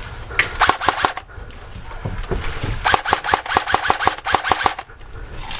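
Airsoft rifle firing on full auto: a short burst about half a second in, then a longer burst of about two seconds, with evenly spaced rapid cracks.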